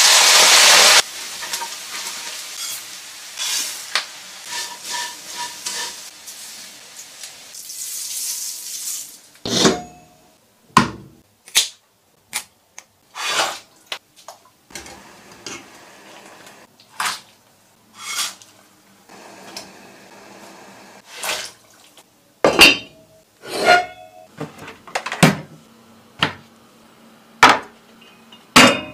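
Shredded chicken breast dropped into hot oil in a wok: a loud burst of sizzling that settles into steady frying for about nine seconds. Then come a series of separate sharp clinks and knocks from pots, lids and utensils.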